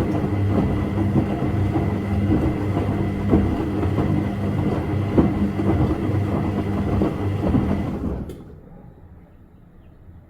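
Washing machine running a wash cycle: the motor hums as the drum turns and the load churns with scattered knocks. It stops abruptly about eight seconds in, leaving a faint low hum.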